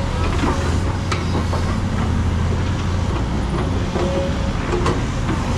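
Heavy diesel dump-truck engine running with a steady low rumble, with two sharp knocks about a second in and near the end.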